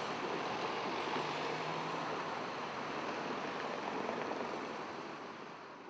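Steady rushing rolling noise of an NSB Class 69 electric train running along the track, fading away near the end.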